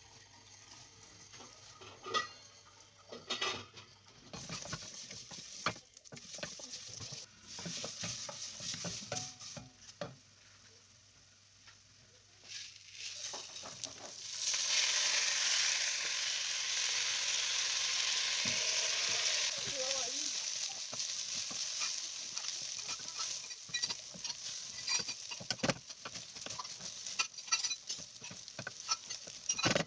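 Vermicelli frying in oil in a stainless steel pot, stirred with a wooden spoon, with scraping, light clicks and sizzling. About 14 s in, washed rice is poured in with a loud steady sizzling hiss that lasts about five seconds, then the stirring and frying go on.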